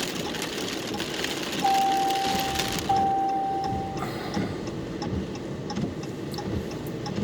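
Two long electronic beeps at one steady pitch, one after the other, over a hiss of rain that drops away about three seconds in; faint regular ticking follows.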